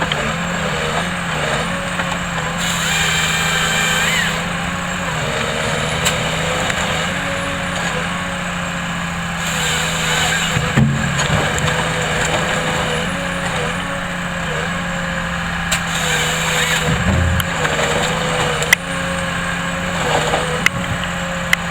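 Engine of a logging machine running steadily, with a few louder surges lasting about a second each and several sharp cracks.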